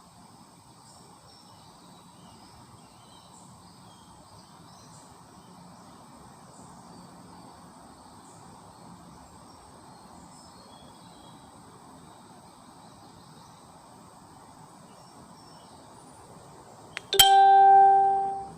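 Crickets chirping at a low, steady level. Near the end a sharp click is followed by a single loud ringing note that fades away over about a second and a half.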